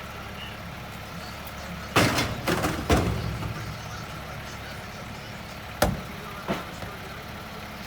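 Peterbilt 520 garbage truck with a Loadmaster Eclipse side-loader body running steadily, with a burst of loud metal clanks and bangs about two seconds in and another sharp bang near six seconds.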